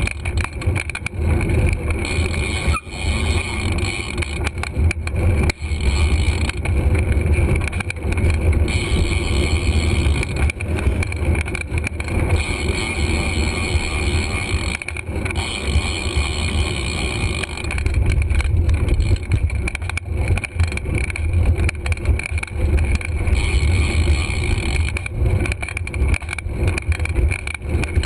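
Steady wind rumble on a GoPro's microphone while riding a bicycle, with road and tyre noise underneath.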